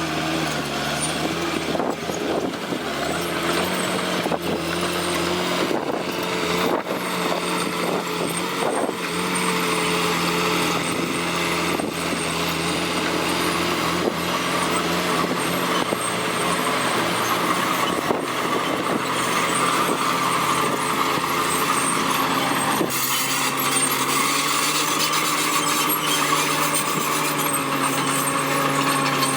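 Komatsu D41P crawler bulldozer's diesel engine running steadily under load, its pitch shifting slightly a few times, with occasional short knocks.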